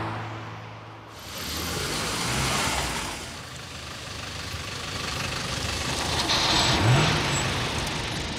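A car's engine running as it drives along the road, with a continuous rumble and road noise that builds after about a second.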